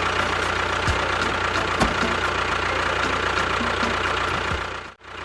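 Engine of a miniature tractor or bulldozer running steadily. It cuts out abruptly for an instant near the end and then carries on.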